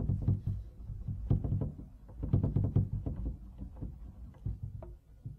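Repeated rubbing strokes against a wood surface, coming in uneven clusters, while a burn-in fill is worked over a repair.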